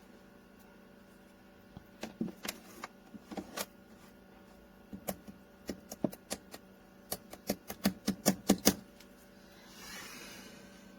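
A series of sharp clicks and knocks, coming faster and louder toward the end, over a steady faint hum; the clicks stop and a brief soft hiss follows.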